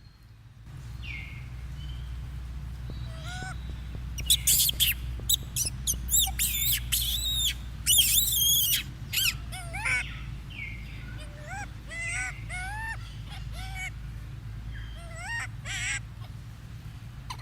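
A monkey's high-pitched squeals and chirps: many short calls that swoop up and down in pitch, loudest in a flurry of shrill shrieks from about four to nine seconds in, then sparser chirps, over a steady low hum.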